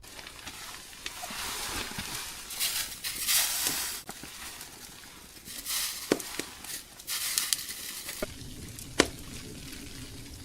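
Meal preparation over a camp stove: short bursts of hissing, like food sizzling in a pan, with a handful of sharp knocks and clicks from utensils and cookware.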